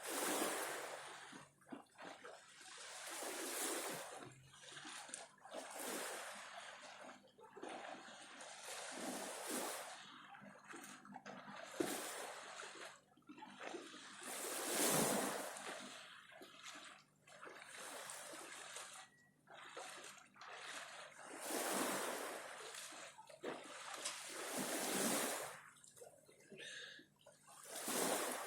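Cold sea water splashing and sloshing in irregular surges, one every second or two, with brief lulls between them.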